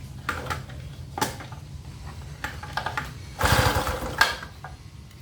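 Recoil starter of a gasoline inverter generator pulled once, the engine cranking over for about a second without catching, after some clicks and rattles of handling. The generator is hard to start after long storage.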